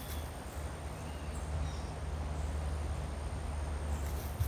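Faint birds whistling a few short calls over a steady low rumble.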